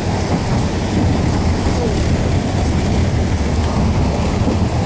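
Steady low rumble of a narrow-gauge forest railway passenger coach running on the track, heard from inside the carriage.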